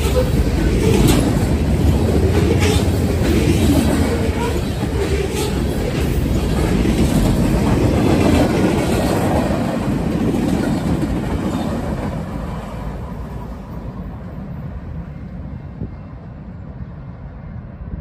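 A train passing by, its wheels clicking over the rail joints above a steady rumble, the sound fading away over the last several seconds as it moves off.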